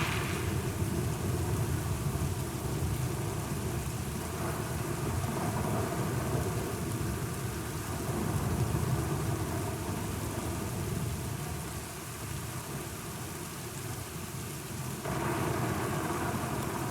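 Thunderstorm: steady rain with low rolling thunder that swells and fades. Near the end the storm grows louder and brighter for a couple of seconds.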